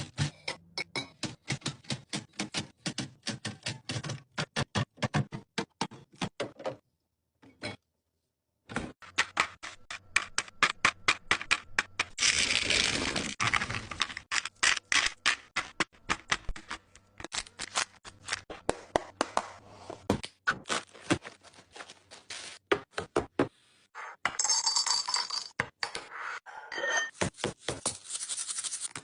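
Groceries and kitchen containers being handled and set down during restocking: rapid taps, clicks and knocks. There is a short break about seven seconds in, a rustling stretch around twelve seconds in, and a few ringing clinks a little before the end.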